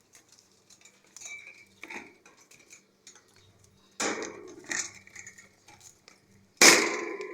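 Metal clinks and clatters of a wire bird cage being handled and set in place: a few light clinks, then a sharp clatter about four seconds in and a louder one near the end.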